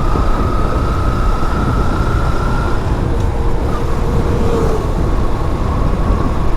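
Riding noise from a motorcycle on the move: steady wind rumble on the rider's microphone over the running engine and road noise.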